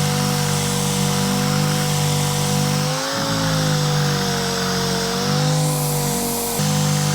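Dual-action (DA) sander running with 120-grit paper on the quarter-panel repair. A steady hum with a hiss, its pitch dipping briefly about three seconds in and sagging again later as it is pressed into the panel.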